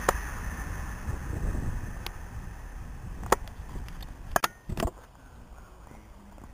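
Rumble of a passing train fading away as it leaves the station. There are a few sharp knocks and a short clatter about three and a half to five seconds in, as the camera is handled and set down on a brick wall.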